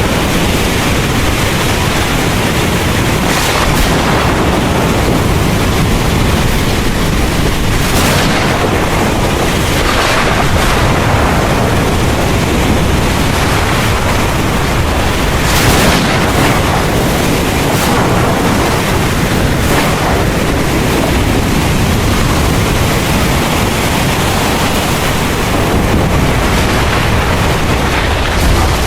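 Heavy rain pouring steadily with thunder rumbling under it, and a few brief louder swells, the biggest about 16 seconds in.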